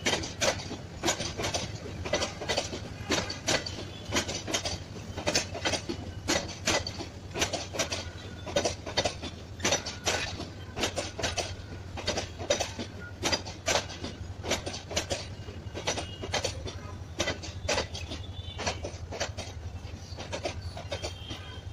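Intercity passenger train coaches rolling past close by, their wheels clacking over rail joints in a quick, uneven series of metallic knocks over a steady low hum.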